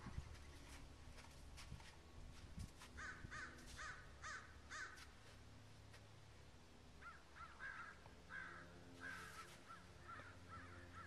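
Faint bird calls: about four calls in quick succession a few seconds in, then a longer run of repeated calls through the second half.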